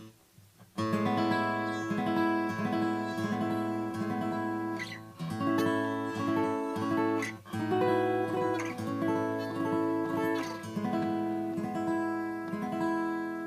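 Acoustic guitar playing a short chord progression: after a brief pause, picked and strummed chords ring out, changing every two to three seconds.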